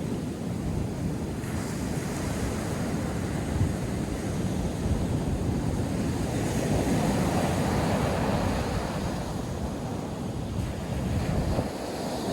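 North Sea surf breaking and washing on the shore, a continuous rush that swells and eases, loudest in the middle and dipping near the end, with wind buffeting the microphone.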